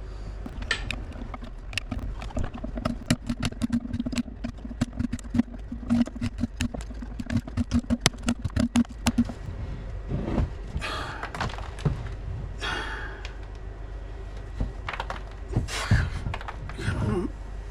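A rapid, irregular run of sharp taps and knocks for about nine seconds over a low steady hum, then a few scraping, rustling noises.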